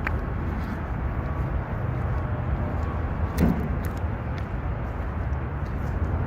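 Recycling truck's engine running steadily with a low rumble, and one short knock about three and a half seconds in.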